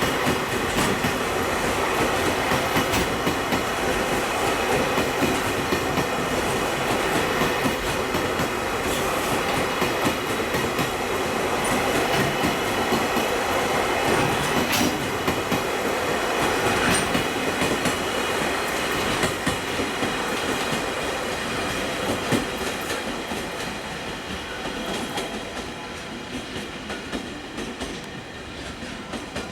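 Container freight train rolling past, its wheels clacking over the rail joints in a steady run of clicks. The sound fades over the last several seconds as the train draws away.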